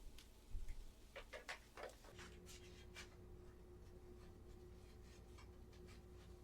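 Kitchen handling noises: a low thump, then a quick run of clicks and knocks, after which a steady electric hum starts about two seconds in and keeps going.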